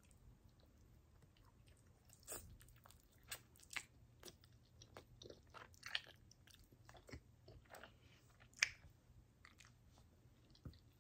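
Close-miked chewing and biting of chicken wings: soft, irregular mouth clicks and smacks, the sharpest about two-thirds of the way through.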